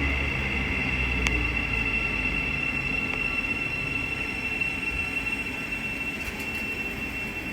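Thameslink Class 700 electric multiple unit standing at the platform, its electrical equipment giving a steady high whine. A low rumble fades out over the first two seconds, and there is a single sharp click just over a second in.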